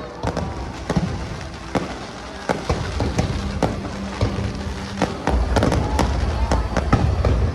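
A rapid, irregular series of sharp bangs and cracks over a low rumble that grows heavier about five seconds in.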